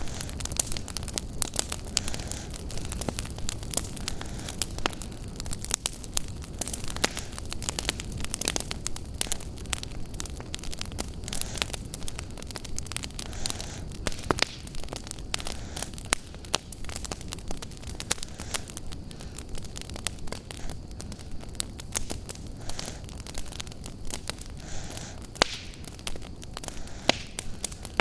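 Wood fire crackling in a fireplace: a dense, irregular run of sharp pops and snaps over a low, steady rumble.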